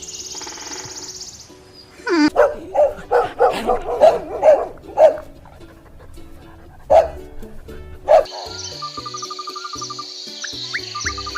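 A dog barking, first in a quick run of about nine short barks, then two more single barks a couple of seconds apart, over background music. Near the end a steady high-pitched trill takes over.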